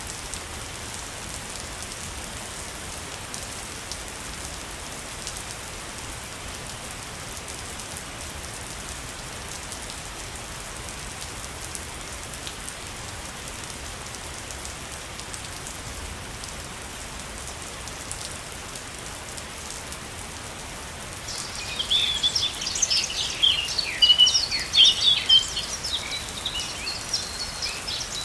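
Steady rushing water of a waterfall. About three-quarters of the way in, birds start chirping, quick high chirps that keep on over the water.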